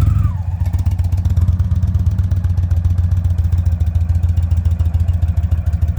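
Indian touring motorcycle's 1800 cc V-twin engine running steadily with a fast, even pulse, ready to pull away.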